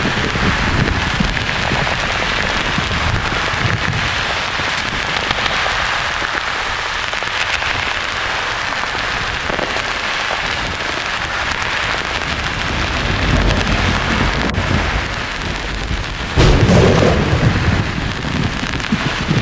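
Thunderstorm sleep sound: a steady rain-like hiss with thunder rumbling low beneath it, then a sudden loud thunderclap near the end that rumbles on for a few seconds.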